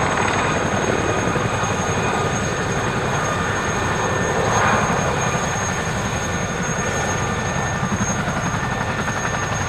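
Three Aérospatiale Gazelle helicopters lifting off, their rotors and turbines running steadily with a fast low beating.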